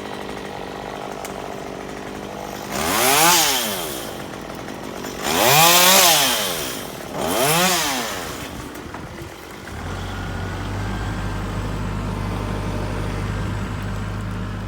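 Chainsaw revved three times, each rev rising and falling in pitch, then a steady low engine hum sets in about ten seconds in.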